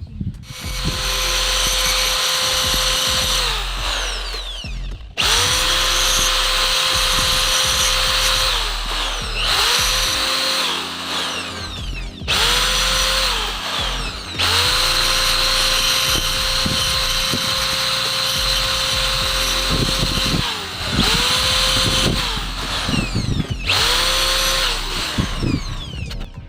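Small electric power tool enlarging bolt holes bit by bit, run in about seven bursts of a few seconds each. Each burst starts with a quick rising whine, holds steady over a grinding hiss, then winds down with a falling whine.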